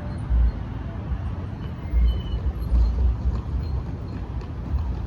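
Freight train rolling past with a steady rumble, and wind buffeting the microphone in irregular low thumps.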